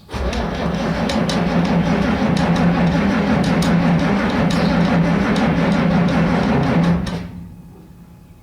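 Starter cranking the cold diesel engine of an International 3850 wheel loader, a steady churning that stops about seven seconds in without the engine catching. It is a hard cold start after glow-plug preheating.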